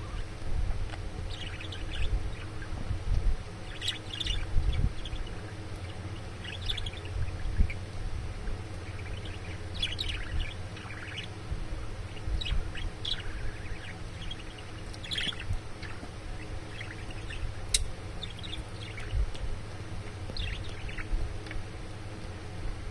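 Budgerigar chirping in short, scattered calls over a low rumble.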